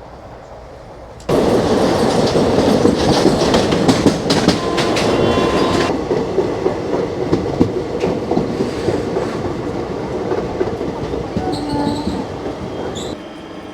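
Passenger train's coach wheels running over rail joints and points, a loud dense clickety-clack that starts suddenly about a second in, with a brief high wheel squeal midway.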